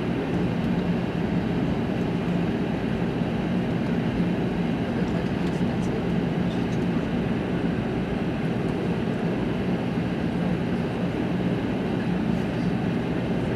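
Steady cabin noise inside an Airbus A380: an even, unbroken roar of engines and airflow, strongest in the low range.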